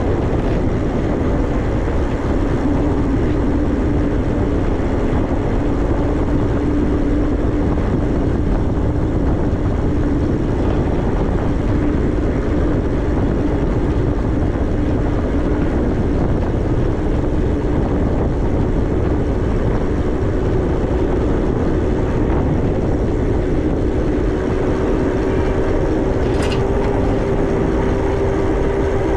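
Electric bike ridden at speed: wind rumbles over the microphone while the motor gives a steady whine that climbs slowly in pitch as the bike gathers speed. A single sharp tick sounds near the end.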